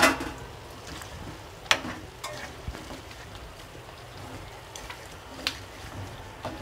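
Chicken pieces sizzling gently in a steel kadai as they are stirred and turned with a spatula, with a few sharp knocks of the spatula against the pan, the loudest about two seconds in.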